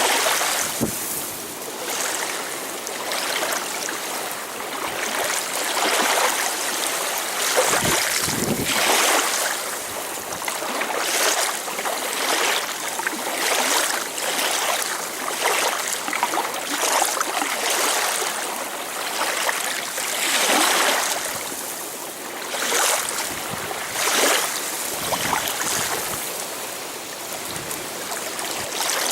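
Blizzard wind rushing in gusts, a loud hiss that swells and eases every second or two.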